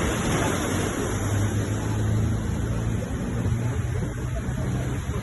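Sea waves washing in a steady rush of surf, with a low steady hum underneath from about a second in.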